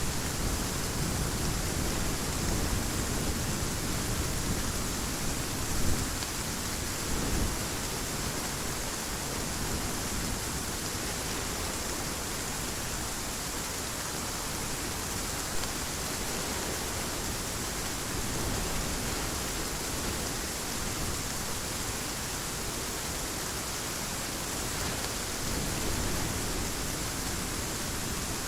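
Heavy rain falling steadily, with a low rumble of thunder in the first several seconds that dies away.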